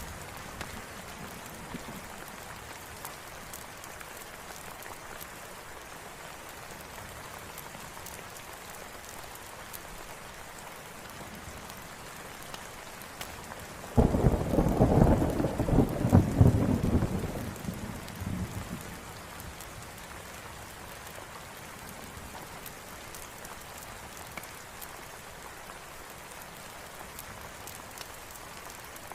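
Steady rain falling, with a peal of thunder about halfway through that starts suddenly and rumbles for about four seconds before fading back into the rain.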